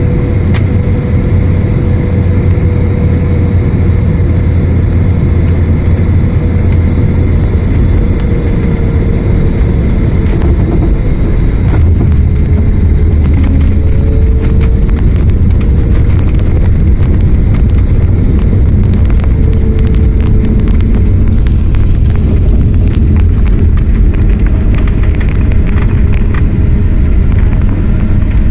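Inside the cabin of an Airbus A321: loud, steady rumble of the jet engines and airframe, with a wavering engine tone and many small clicks and rattles from the cabin fittings, more of them in the second half.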